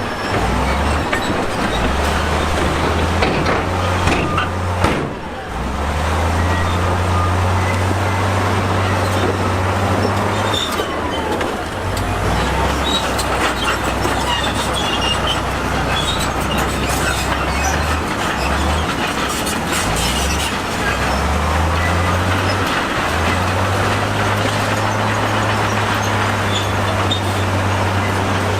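Bulldozer's diesel engine working hard, its low note stepping up and down several times as the load changes, over a steady mechanical din with scattered clatter.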